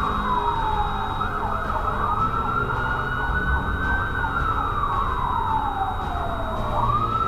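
Emergency vehicle siren wailing, its pitch sliding slowly down and back up in long sweeps of a few seconds each, over a low rumble.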